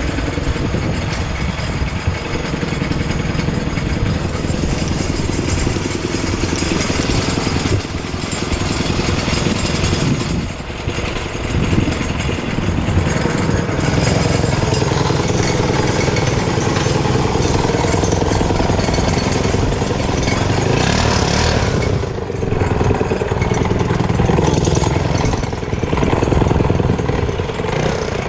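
Motorcycle engine running continuously, with a few brief dips in level.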